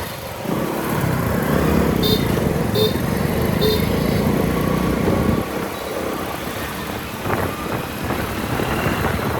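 Motorcycle riding through city traffic: engine and road noise, louder for the first few seconds and easing about halfway through. Three short high-pitched beeps sound about two to four seconds in.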